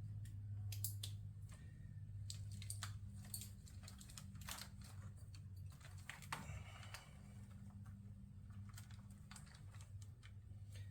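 Faint, irregular light clicks and small rattles of plastic wiring connectors and cables being handled and plugged together on a motorcycle, over a steady low hum.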